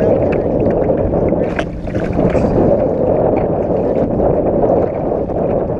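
Strong wind buffeting the microphone aboard a kayak, with water lapping against the hull, a steady loud rush throughout.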